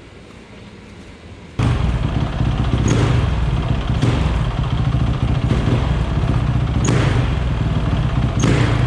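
Honda CRF450R's 450 cc four-stroke single-cylinder engine running loud, starting abruptly about a second and a half in, with short surges every second or two that each carry a brief high chirp. The owner hears a whistle from this bike under acceleration that he suspects is an air leak or the carburetor.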